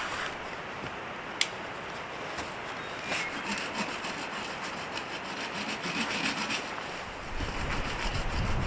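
Irregular rubbing and scraping sounds, with one sharp click about a second and a half in. Near the end, wind begins buffeting the microphone.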